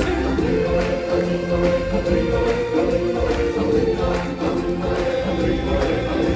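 Live show music: a choir of voices singing over an instrumental backing.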